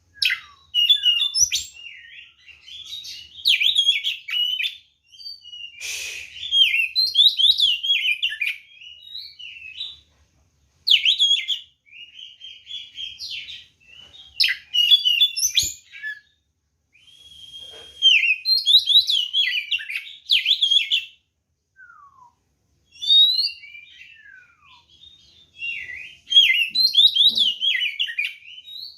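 Oriental magpie-robin singing: bursts of rapid, varied whistled phrases and chirps, each a second or three long, with short pauses between.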